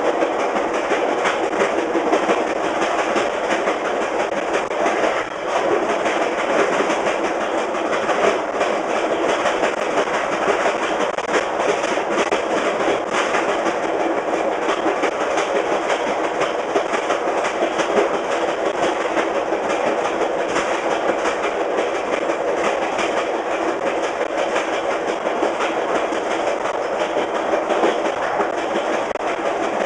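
Clickety-clack of a fast VIA Rail passenger train's wheels over jointed rail, heard from the rear of the train, with a steady rolling rumble and running noise underneath.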